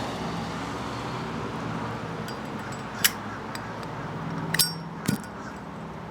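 Steady hum of distant road traffic, with three sharp clinks about halfway through and near the end.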